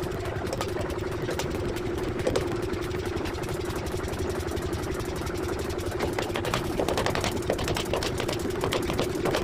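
Forging-shop machinery running with a steady hum, overlaid with frequent short metallic knocks and clatter that grow busier and louder about six seconds in.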